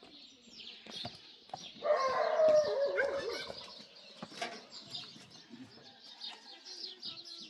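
Small birds chirping steadily and densely. About two seconds in, a louder wavering call rises over them for about a second and a half.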